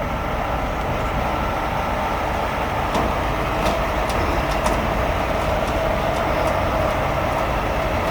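Heavy rotator wrecker's engine and winch hydraulics running steadily with a whine, while the 7/8-inch wire rope under load gives off a scatter of sharp ticks and pings from about three seconds in: the cable "talking" as it takes the strain of the lift.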